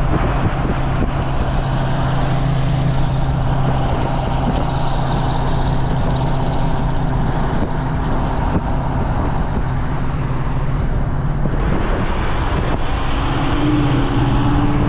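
Second-generation Cadillac CTS-V's supercharged 6.2 L V8 droning steadily at cruise, heard from inside the car, with road noise under it.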